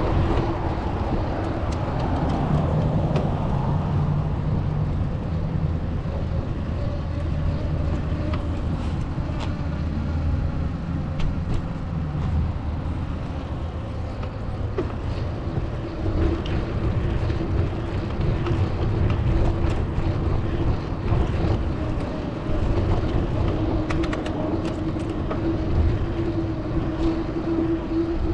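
Road traffic: motor vehicles running close by, with a steady rumble of engines and tyres and a held engine hum that grows stronger about halfway through.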